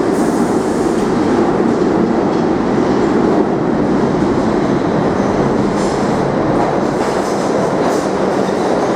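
R62A subway train running along the track with a steady, loud rumble, with a few clicks of wheels over rail joints in the last few seconds.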